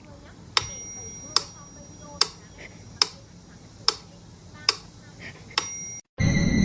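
Sharp ticks or taps repeating evenly, about one every 0.8 seconds, a couple with a brief ringing tone. Just before the end it cuts abruptly to background music with a steady drone.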